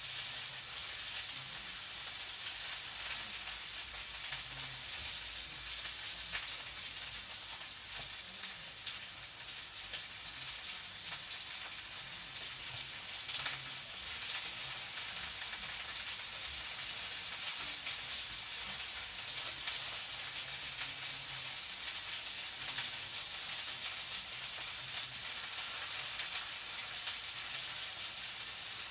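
Food frying in a pan: a steady sizzle with dense small crackles. A faint low hum comes and goes underneath.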